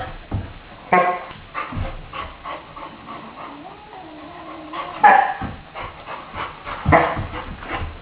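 Saint Bernard puppy barking in short bursts during rough play, the loudest barks about a second in, about five seconds in and about seven seconds in.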